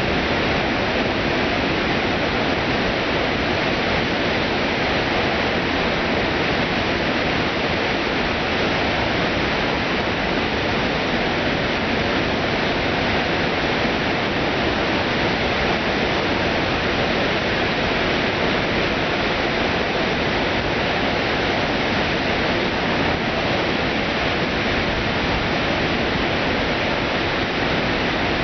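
Floodwater pouring over the half-built Cotter Dam: a loud, steady rush of falling water.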